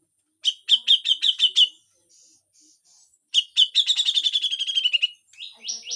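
Cucak jenggot (brown-cheeked bulbul) singing rough, harsh notes: two fast runs of scratchy repeated notes, the first about seven notes, the second longer and falling slightly in pitch, then a few quick rising notes near the end.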